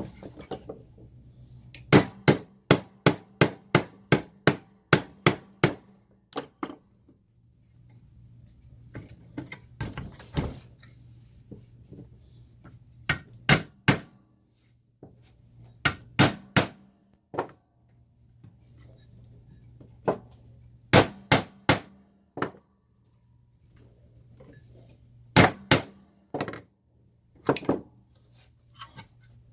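Hammer blows on the bent metal chassis of a Leslie 122 amplifier as it is knocked back straight: sharp strikes in bursts, up to about two a second, with pauses between the bursts.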